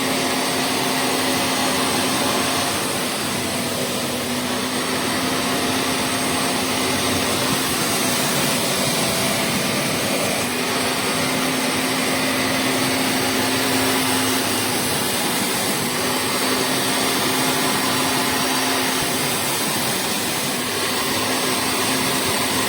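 Vacmaster SCA0801 carpet spot cleaner's suction motor running steadily, a loud even rush of air with a constant hum.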